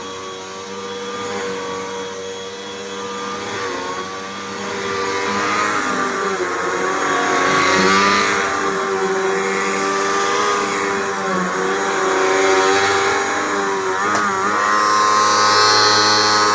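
Hoover WindTunnel 2 Rewind upright vacuum cleaner running, pretty darn loud, its motor whine wavering up and down in pitch, with a brief dip and recovery near the end.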